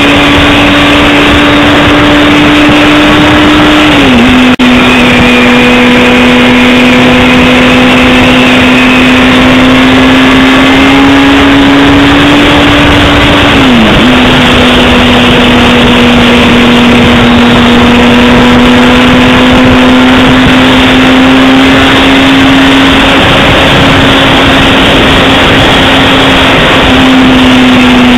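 Honda CBR600RR's inline-four engine pulling at steady cruising revs, its pitch creeping up and then dropping sharply at upshifts about four seconds and fourteen seconds in, with a smaller step down near the end. Heavy wind noise over the microphone.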